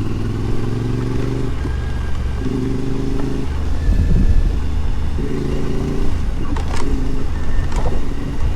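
Adventure motorcycle engine running on the move, its pitched note coming and going several times over a steady low rumble of wind and road noise. Two sharp clicks sound near the end.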